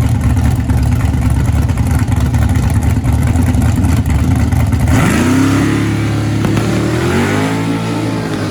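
Drag car's engine at full throttle during a pass. A dense, loud rumble gives way about five seconds in to a clear engine note that climbs, levels off and climbs again as it pulls through the gears.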